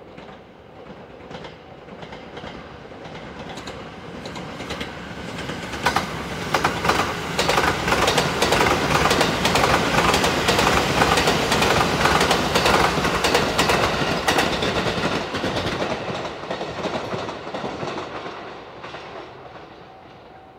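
Sunrise Seto sleeper train, a 285 series electric train, passing at speed without stopping. It approaches, runs loudest for several seconds with rapid clicking from its wheels over the rail joints, then fades into the distance.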